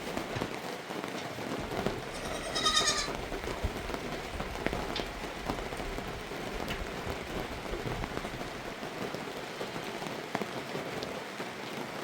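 Steady rain falling, with many small ticks of drops on surfaces. A single wavering bleat from the flock about two and a half seconds in.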